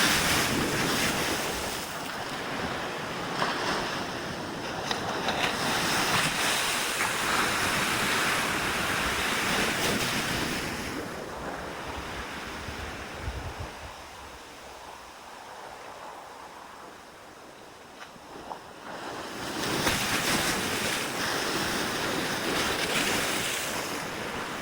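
Sea waves breaking and washing in, the surf swelling and ebbing: loud at first, dropping away for several seconds in the middle, then rising again near the end. Wind buffets the microphone with a low rumble.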